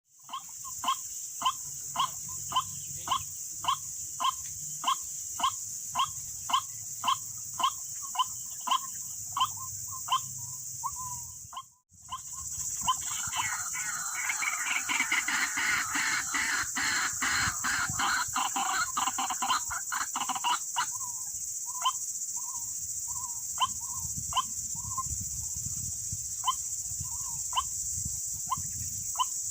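White-breasted waterhen calls: short calls repeated about twice a second, then after a brief break a busier chattering stretch of calls, thinning out to scattered single calls. A steady high insect drone runs underneath.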